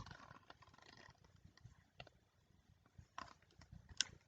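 Near silence: room tone, with a few faint short clicks.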